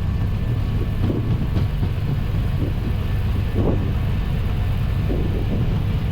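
Steady rumble inside an Airbus A320 cockpit during the takeoff roll at takeoff thrust, accelerating past 100 knots towards V1: the engines running, the wheels rolling on the runway, and airflow noise.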